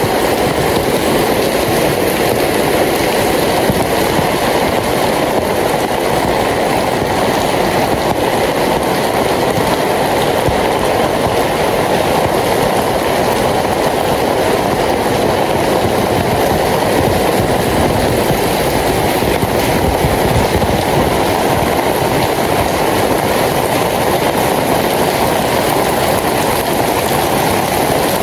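Rain falling steadily and loudly, an even rushing noise that holds unchanged throughout.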